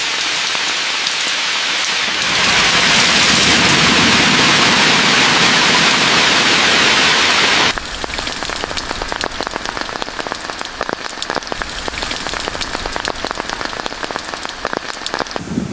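Heavy rain falling, a dense steady hiss that grows louder about two seconds in. About halfway it cuts abruptly to lighter rain in which many separate drops are heard as sharp ticks.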